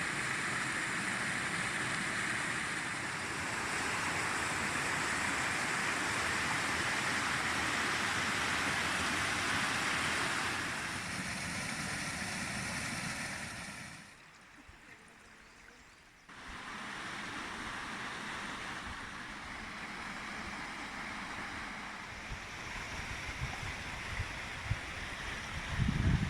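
Steady rush of falling and flowing water from a waterfall and river. It drops away for about two seconds around the middle, then returns a little quieter, with a few low thumps near the end.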